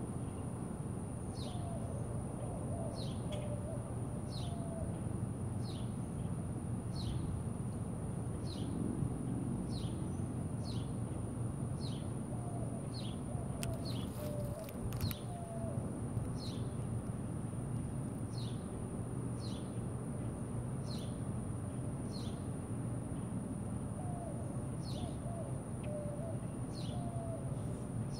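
Outdoor ambience of birds: one repeats a short, high, falling chirp roughly every second, while a lower phrase of several notes comes three times. Under them run a steady low rumble and a thin, steady high whine, with a few sharp clicks about halfway through.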